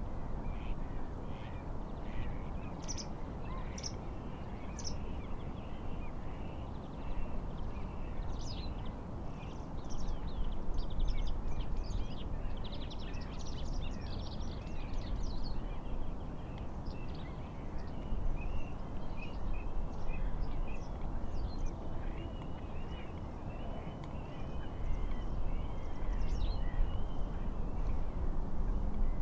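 Many birds chirping and trilling over a steady rush of wind and lapping lake waves.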